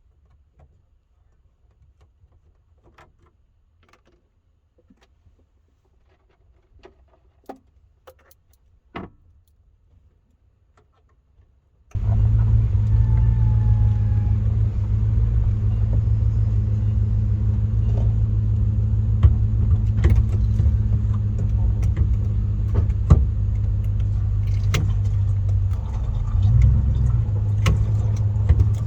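Faint clicks and small rattles for about twelve seconds, then a loud, steady low rumble of a running vehicle starts abruptly and carries on: the 2005 Chevy Astro van's 4.3-litre V6 engine running.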